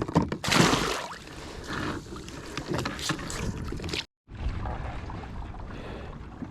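Water splashing and dripping around a kayak as a crab pot is handled, with wind buffeting the microphone. The sound cuts out completely for a moment about four seconds in, then goes on quieter.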